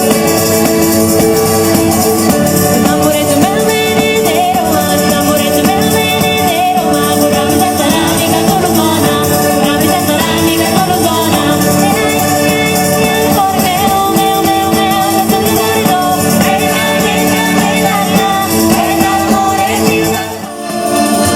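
Southern Italian folk music: singing over guitar with rattling hand percussion such as tambourine or frame drum jingles. The music drops out briefly near the end, then resumes.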